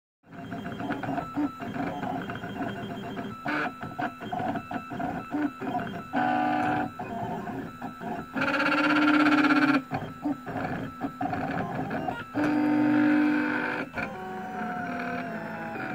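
Printrbot Plus 3D printer's stepper motors whining as the print head and bed move, the pitch jumping with each short move. Three longer, louder sustained tones come about 6, 9 and 13 seconds in.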